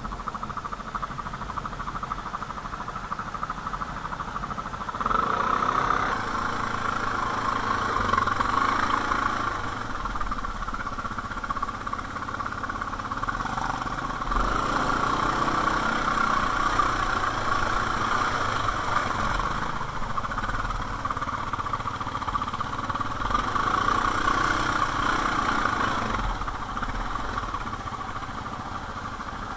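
ATV engine running, with the revs rising and falling; it swells louder three times, then eases off near the end.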